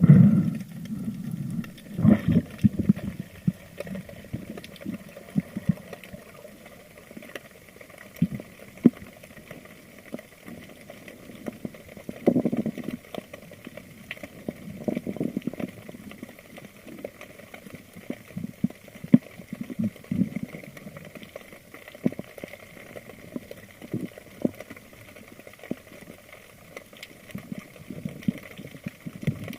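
Water and bubbles swishing around an underwater camera on a spearfishing dive, with irregular knocks and bumps against the housing, the strongest just at the start and about two and twelve seconds in.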